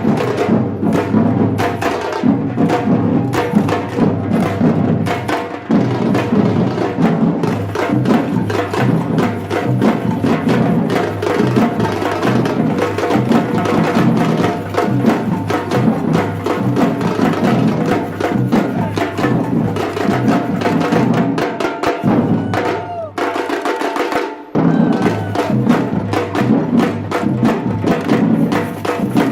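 Batucada drum group playing a fast samba rhythm, with deep bass drums under sharp, dense higher drums and percussion. About three-quarters of the way through, the bass drums stop for a moment, then the full group comes back in.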